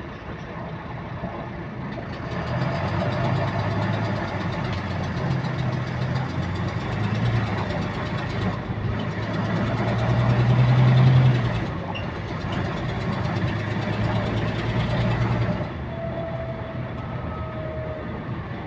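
Diesel bus engine heard from on board, pulling and building up speed, with a repetitive clicking that keeps time with engine speed. The engine sound breaks briefly twice, at about nine and twelve seconds in, and eases off near the end.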